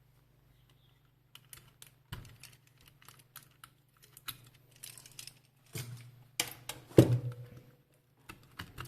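Irregular small clicks and taps of tools and parts being handled on a repair workbench, with a sharper knock about seven seconds in, over a faint steady hum.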